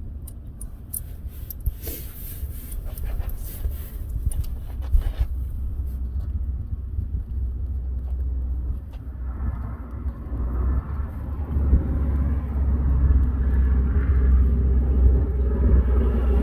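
Light metallic clicks and taps of a hand wrench working a stuck fuel-pump mounting bolt on a 1970 GMC pickup's engine, over a steady low rumble. A broader rushing noise builds up in the second half.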